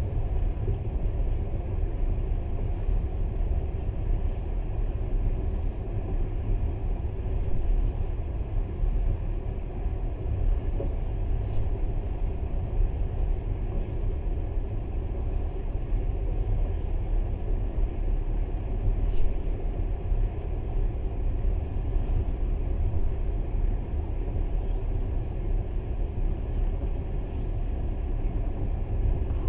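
Steady low rumble of a moving passenger train, heard from inside the carriage, with an occasional faint click.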